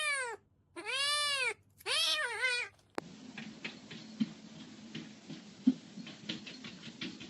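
A cat meowing loudly three times. Each call is long and rises then falls in pitch, and the third wavers. About three seconds in the meowing stops and a much quieter stretch follows, with scattered faint clicks and taps.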